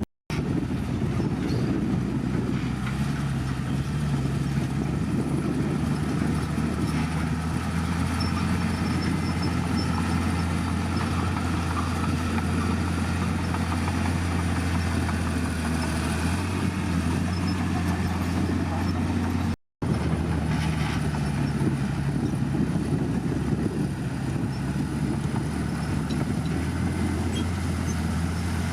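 Heavy diesel engine of an earthmoving bulldozer running steadily under work. The sound cuts out sharply twice, just after the start and about two-thirds of the way through.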